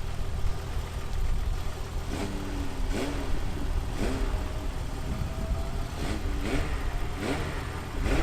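Lister LFT666's supercharged V8 engine idling with a series of short throttle blips, each rev rising and falling quickly, about one a second from about two seconds in.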